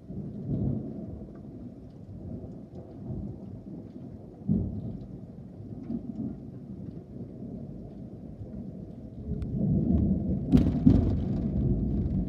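Thunder rumbling steadily in a thunderstorm with rain falling. A sharp crack comes about four and a half seconds in, and near the end a lightning strike gives a louder, sharper crack followed by heavy rolling thunder.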